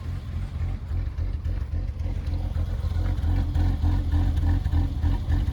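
BMW E30 six-cylinder engine idling roughly, with an uneven low pulsing, a little louder from about halfway through. The rough idle comes with rich running and fouled spark plugs.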